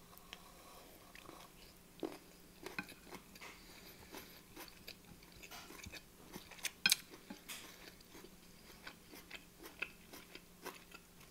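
Quiet close-up chewing of a mouthful of beef mince and rice, heard as many short, irregular mouth clicks. A wooden spoon scrapes and taps on the plate about halfway through.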